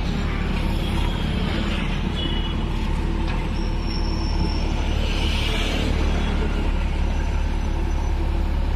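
JCB 3DX backhoe loader's diesel engine running steadily with a deep rumble while the machine works, with a few brief high-pitched squeals over it about two and four seconds in.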